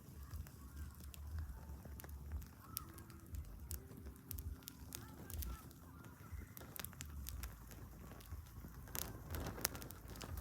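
Wood campfire crackling, with scattered sharp pops that come thicker near the end.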